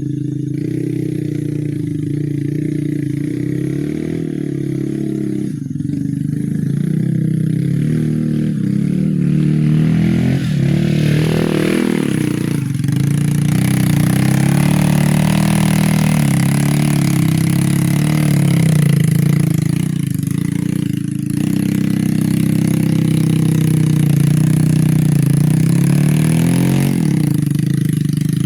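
A vehicle engine running steadily, its pitch shifting about a third of the way in and again near the end.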